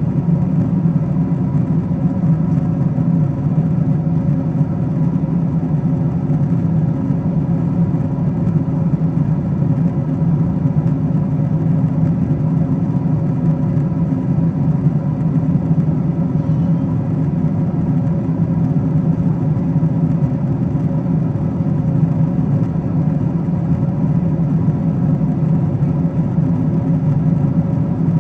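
Steady cabin noise of a Boeing 777-200ER at cruising altitude: an even drone of airflow and engines, heaviest in the low range, with a couple of faint steady hums above it.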